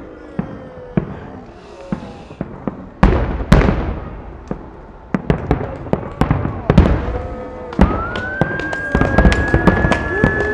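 Fireworks finale: aerial shells bursting in quick succession with sharp bangs, two heavy booms about three seconds in, and the bangs growing denser toward the end. A long, high whistling tone comes in near the end and rises slightly.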